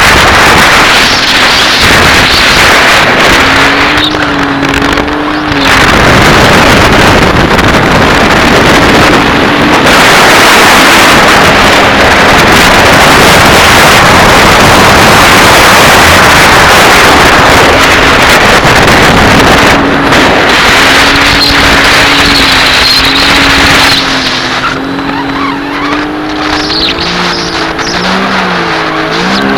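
Sea-Doo jet ski running at speed, its engine note buried under a loud rush of wind and water. Near the end the noise eases and the engine pitch wavers up and down as the throttle changes.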